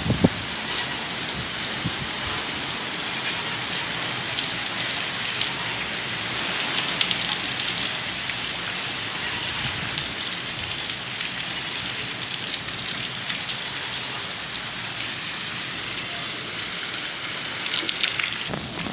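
Heavy rain pouring down steadily, a dense hiss with scattered sharp drop ticks.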